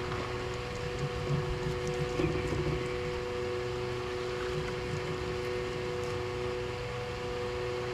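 Boat motor running steadily, a constant hum with a low rumble underneath that swells briefly about one to three seconds in.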